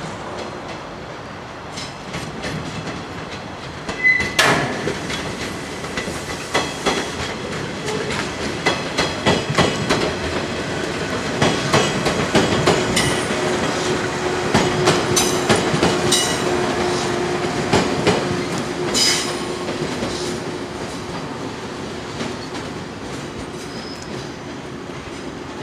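A JR West 115 series electric multiple unit passing close by, its wheels clicking over rail joints in rapid runs of clacks that build up and then fade as it goes away. A brief high tone sounds about four seconds in, and a steady tone carries through the second half.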